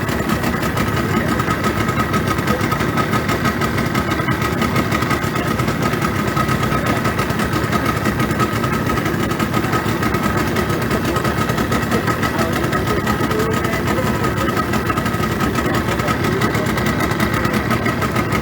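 Engine running steadily at an even speed, with a faint steady whine above it.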